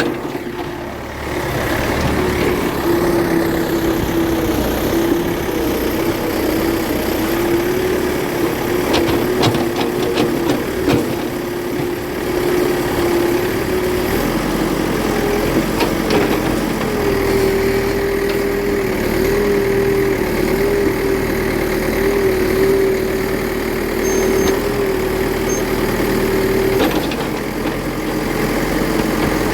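Toy JCB backhoe loader running: a steady engine-like drone with a wavering hum, which steps up slightly in pitch near the end.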